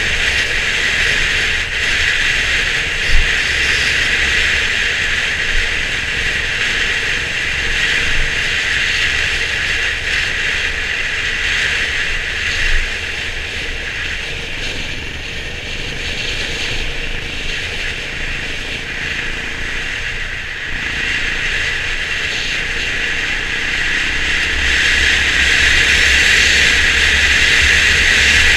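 Onboard sound of a Honda CB350 RS under way: a steady rattling, rushing noise over a low rumble from the 348 cc single-cylinder engine, with a few sharp knocks from the rough road.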